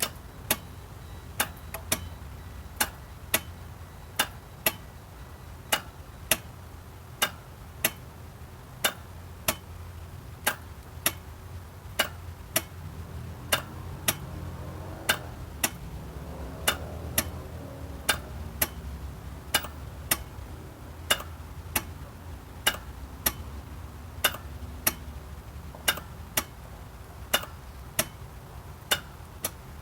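A relay in a 1997 Geo Metro clicking at a steady, even rate, about three sharp clicks every two seconds, over a low steady hum.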